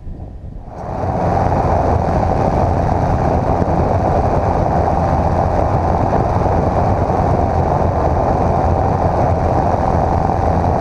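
Cessna 150's engine and propeller running steadily, coming in suddenly about a second in.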